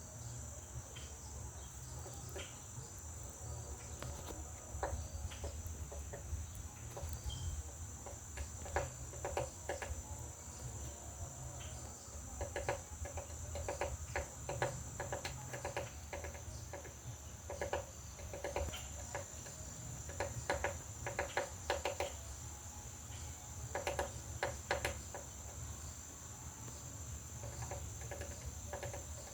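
Woodpecker pecking on a wooden butterfly house: several bursts of quick taps with a hollow wooden ring, over a steady high trill of crickets.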